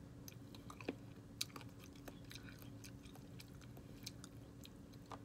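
Close-up chewing and eating of baked chicken wings: scattered small wet clicks and crunches as the meat is bitten and pulled from the bone, over a faint steady hum.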